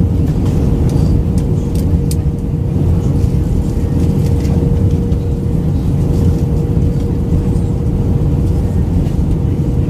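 Airbus A319 cabin noise in flight: a steady low rumble of airflow and CFM56 engines, with one steady hum running through it.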